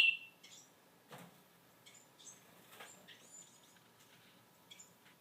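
Small birds chirping: one loud, sharp chirp sliding down in pitch right at the start, then short, faint, high chirps every second or so.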